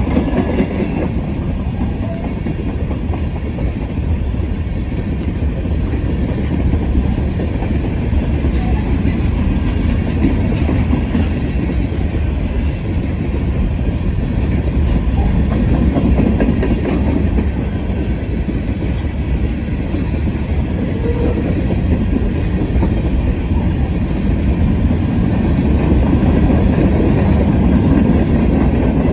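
Freight train of empty grain hopper cars rolling past: a steady rumble of steel wheels on the rails with clickety-clack over the rail joints, swelling and easing a little as the cars go by.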